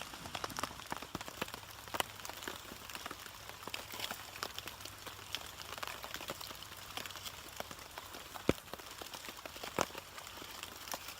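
Steady rain with many scattered sharp ticks and pops of drops, a few louder ones about two, eight and ten seconds in.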